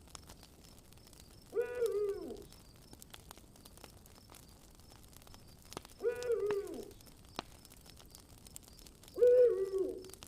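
Three drawn-out calls from a forest animal, about four seconds apart, each falling in pitch at its end. Faint crackling of a campfire sounds between the calls.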